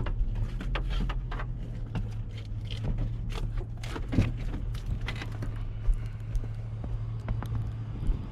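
Plow vehicle's engine running steadily at a low hum, with scattered light clicks and knocks over the first half.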